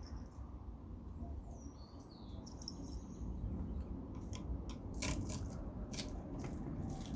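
Wire-cutter pliers cutting and working copper tubing loose from scrap metal: light metallic clicks and snips, several in quick succession in the second half.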